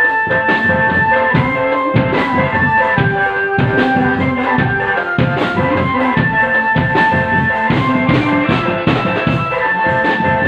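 Drum band music: drums beating a steady rhythm under a melody of held notes.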